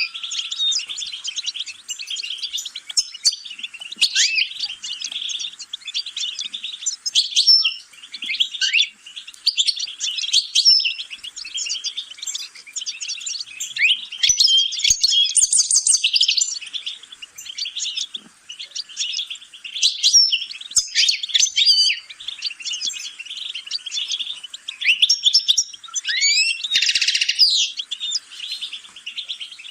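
A songbird singing continuously, a fast, rambling twitter of chirps, trills and quick upward and downward sweeps. A brief harsher, buzzier phrase comes near the end.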